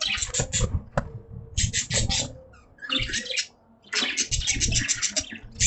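Caged budgies giving runs of rapid, harsh chattering pulses, several quick bursts with short gaps between them. Low knocks and rustles run underneath.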